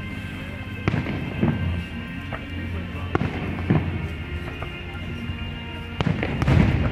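Aerial fireworks going off in scattered bangs, about one every second or two, then a rapid cluster of bangs near the end, with music playing underneath.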